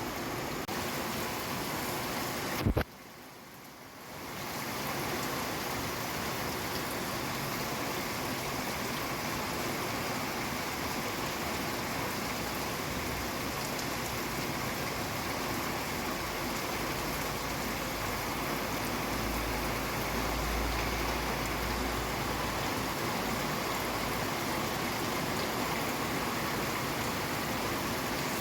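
Steady heavy rain falling. About three seconds in there is a sharp click, then the rain drops out suddenly and fades back in over about a second. A low rumble comes up for a few seconds past the middle.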